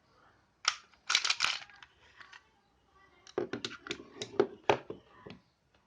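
Clicks and clacks of a WE G18C airsoft pistol's parts being handled during disassembly. There is a sharp click about a second in, a short clattering cluster just after, and a run of quick clicks in the second half.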